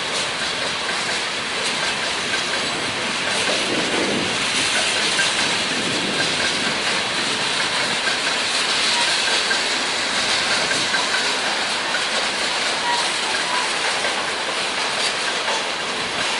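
Freight train cars rolling past on the rails, a steady, even hiss of wheels and running gear.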